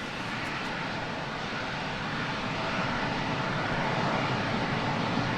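Jet engines of an Airbus A321 airliner on its landing roll, a steady rushing noise that grows slowly louder.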